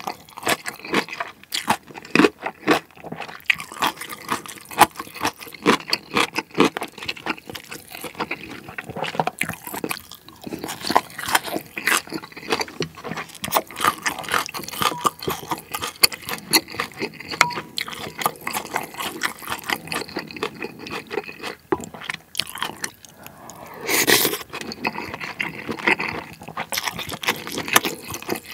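Close-miked mouth sounds of a person chewing food, a steady stream of quick wet clicks and crackles. Chopsticks work in a bowl of pork-and-rice soup later on, and one louder, noisy sound lasting about a second comes near the end.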